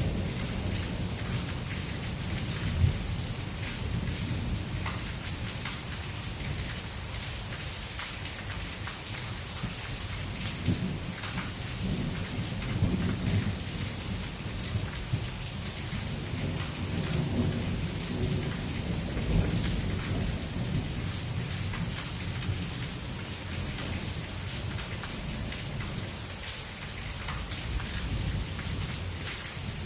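Heavy thunderstorm rain pouring steadily, with low thunder rumbling through the middle stretch.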